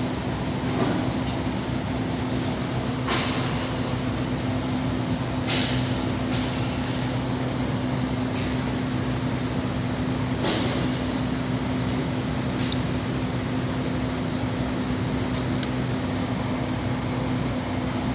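Detroit Diesel DD15 inline-six diesel engine idling steadily, with a few brief sharp noises over it, the clearest about three, five and a half and ten seconds in.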